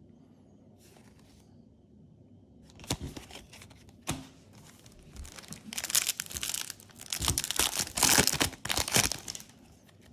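Yu-Gi-Oh booster pack's foil wrapper being torn open and crinkled. A few sharp clicks come about three and four seconds in, then loud crinkling runs for several seconds near the end.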